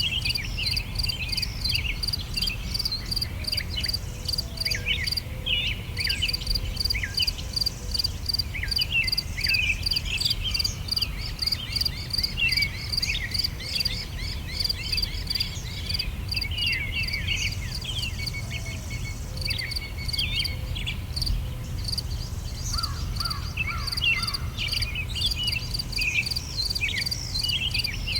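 Summer outdoor ambience: many small birds chirping in short, quick sweeping calls over the steady pulsing chirp of crickets, with a low rumble underneath.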